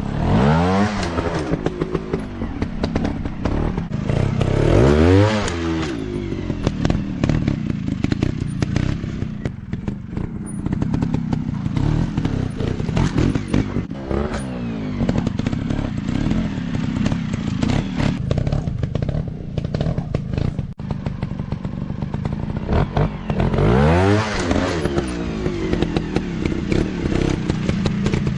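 Off-road dirt bike engines revving hard and easing off as they are ridden over rough ground, the pitch rising and falling sharply several times, most strongly about a second in, around five seconds in and near the end, with many short knocks and clatters throughout.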